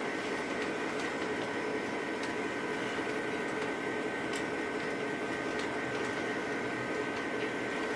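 Model trains running on the layout: a steady motor hum and whine with wheel noise on the track and occasional faint clicks.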